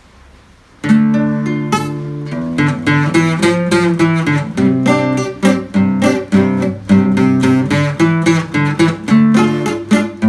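Acoustic guitar (violão) strummed. A first chord is struck about a second in and left to ring, then a steady, driving strum of chords in a Pentecostal 'corinho de fogo' rhythm.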